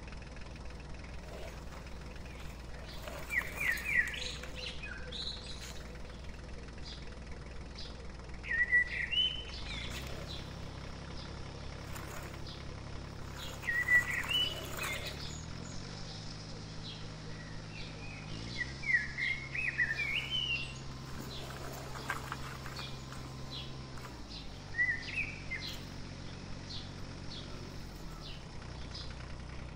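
A songbird chirping in short warbling phrases, about five times at intervals of roughly five seconds, over a faint low hum.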